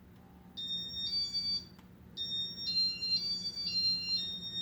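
High-pitched electronic beeps: a short two-note beep, then from about two seconds in a quick run of stepped notes like a little tune.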